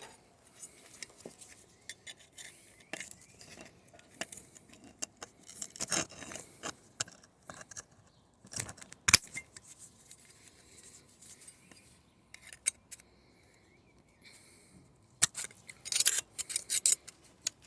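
Hand metal snips cutting a sheet-metal patch panel: irregular snips and clicks, the sharpest about nine seconds in and a quick run of cuts near the end, trimming the panel's edge.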